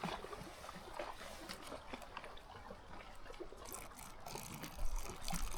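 Hot water being poured into a dehydrated backpacking meal pouch: a faint, steady trickle with small crinkly ticks. A low rumble comes in near the end.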